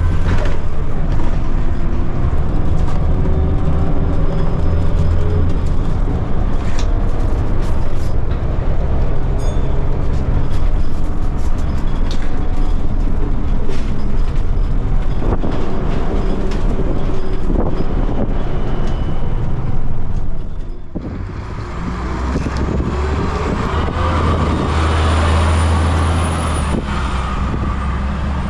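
Scania L94UB bus engine and ZF automatic gearbox running under way, with clicks and rattles from the bus body. About twenty seconds in the running drops away briefly, then the engine and gearbox note rises again as the bus picks up speed.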